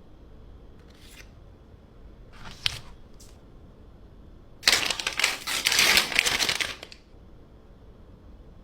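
Cardboard and plastic phone packaging being handled and opened: a few brief rubs and a click, then about two seconds of loud scraping and rustling.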